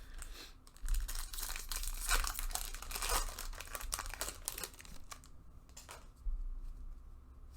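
Foil wrapper of a trading-card pack crinkling as it is handled, with a dense crackle from about one to five seconds in and a short burst again near the end.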